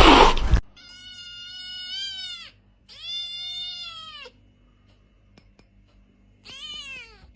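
A cat meowing: three long, drawn-out meows, the last one shorter, each falling in pitch at its end. A loud noisy rush cuts off abruptly at the start, about half a second in.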